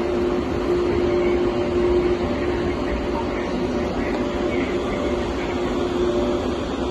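Passenger train running, heard from inside the carriage: a steady rumble and rushing noise with a constant low hum.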